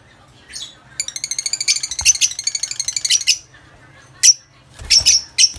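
Lovebirds calling: a fast chattering run of high chirps lasting about two and a half seconds, followed by a few short, sharp squawks near the end.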